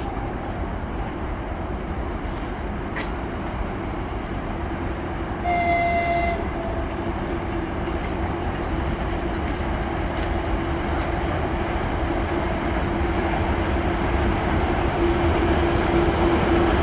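Freight train hauled by a VL11M electric locomotive approaching, a steady rumble that grows louder with a steady hum over it. About five and a half seconds in, a short horn blast of about a second, two tones at once.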